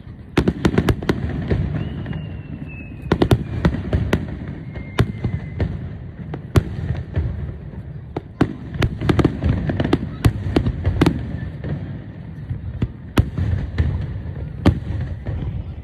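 Aerial fireworks bursting in quick succession: many sharp bangs and cracks over a steady low rumble of more distant bursts, with a faint whistle gliding downward about two seconds in.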